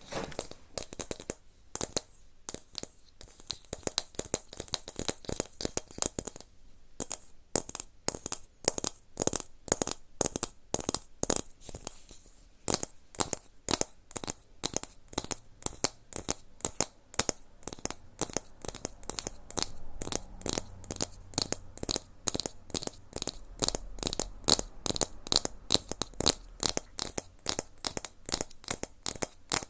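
ASMR trigger sounds: a long, steady run of quick, crisp clicks and taps, several a second.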